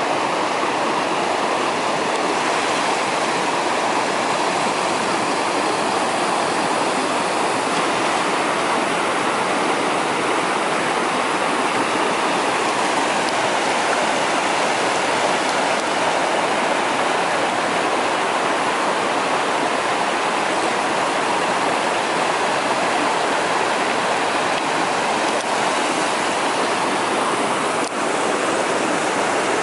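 Steady, unbroken rushing of water, like a fast stream or waterfall.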